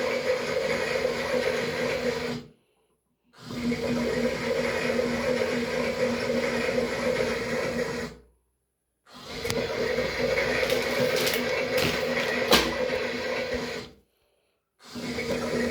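Toy washing machine running: a small electric motor hums steadily while water churns in the tub. The sound cuts out completely three times for under a second each, and a few sharp clicks come about twelve seconds in.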